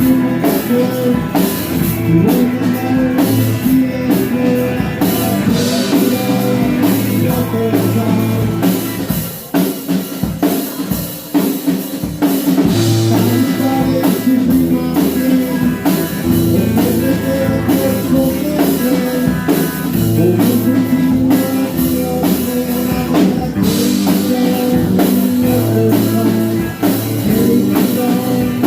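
Live band music with drum kit and electric guitar, a rock-style song; the band briefly drops to a sparser passage partway through before the full sound returns.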